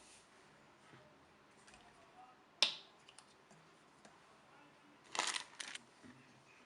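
Small handling sounds over quiet room tone: a single sharp click about two and a half seconds in, then two short scraping rustles near the end.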